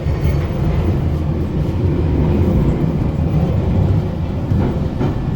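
London Underground Bakerloo line tube train running, a steady loud low rumble.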